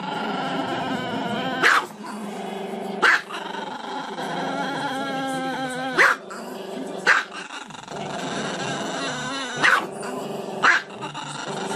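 Small black-and-tan dog howling with a long, wavering drawn-out voice, broken by about six short, sharp yips.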